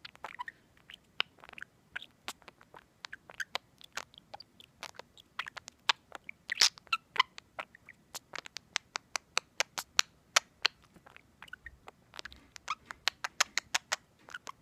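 Pet budgie making rapid, irregular beak clicks and taps, several a second, with a few short faint chirps among them.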